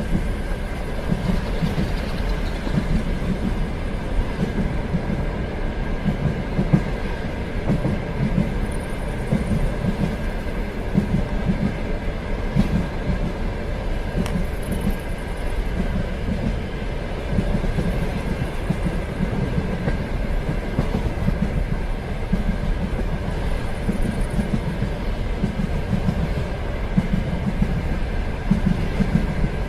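Train running steadily, a continuous low rumble of the wheels on the rails with a steady hum from the carriage and faint clicks now and then.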